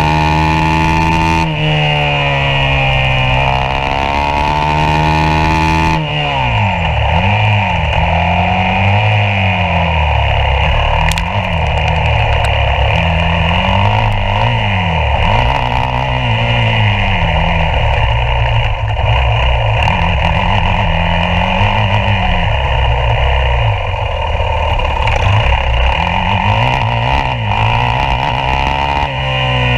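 Yamaha YZ450F's single-cylinder four-stroke engine heard from onboard, revving up and down through the gears under hard acceleration and braking. About six seconds in the sound turns rougher, with short, quick rises and falls in revs.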